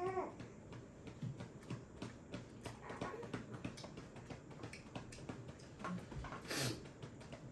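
Scattered light clicks and knocks of a child eating at a table, with a high child's voice tailing off at the very start and a short breathy sound about six and a half seconds in.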